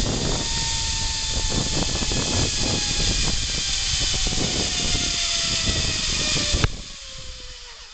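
Zip line trolley pulley running along a steel cable, with heavy wind rush and a thin whine that falls slowly in pitch as the ride slows. About three-quarters of the way in there is a sharp click and the rushing noise drops away, leaving the fading whine.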